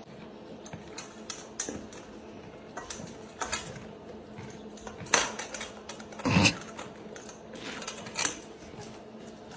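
Irregular clicks and knocks, like small hard objects clattering, over a steady low hum; the loudest knocks come about halfway through.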